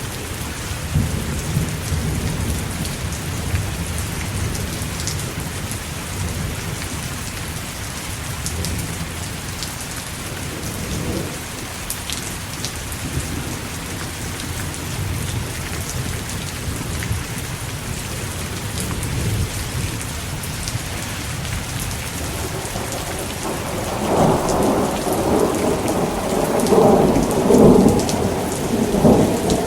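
Thunderstorm: steady heavy rain with low rolling thunder underneath. A louder rumble of thunder swells about three-quarters of the way in and carries on to the end.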